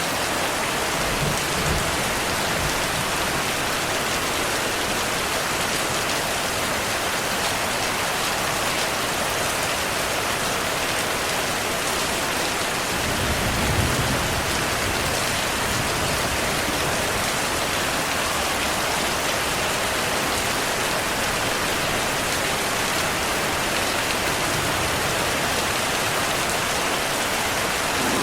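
Heavy rain falling steadily, with low rumbles of thunder about a second in and again around 13 to 15 seconds.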